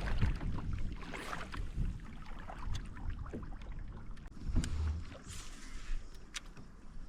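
Wind-driven choppy water lapping against a fishing kayak's hull, with scattered light knocks and clicks.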